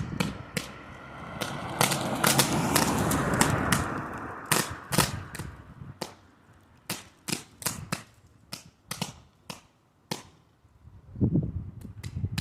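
Electrical arcing between two power-line wires touching on a utility pole: a short circuit. It is an irregular series of sharp cracks and snaps, with a stretch of crackling hiss between about one and four seconds in.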